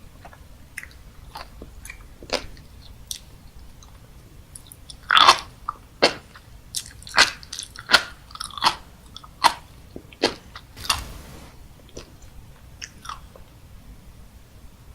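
Close-miked mouth chewing and biting of crunchy, popping food: a few light clicks at first, then a quick run of loud, sharp crunches and pops from about five to ten seconds in, a brief wet hiss, and a few scattered clicks near the end.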